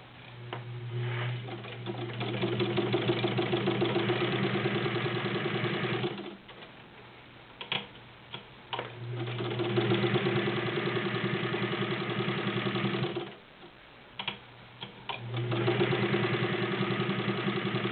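Vintage all-metal Necchi BU sewing machine with a 1.1 amp motor, stitching through six layers of denim in three runs of a few seconds each, with a few clicks in the pauses between runs. The machine sews at a steady speed with no hesitation.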